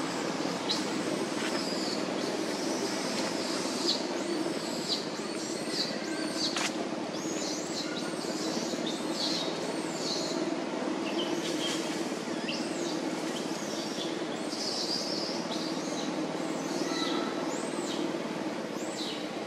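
Birds chirping in quick, repeated high arching calls over a steady low rumble of background noise.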